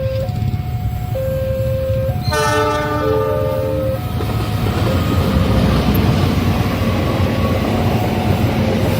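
Level-crossing warning alarm alternating between two notes, then a train horn sounds a chord about two seconds in for under two seconds. The train then passes with a heavy rumble and wheel clatter while the crossing alarm keeps sounding.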